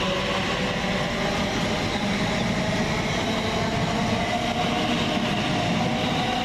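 Class 345 Aventra electric multiple unit pulling away from the station, its traction motors whining in a steady rise in pitch as it picks up speed over the rail and wheel noise.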